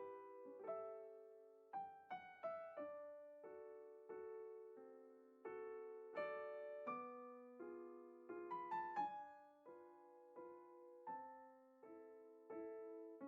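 Slow, soft solo piano music, single notes and chords struck and left to fade.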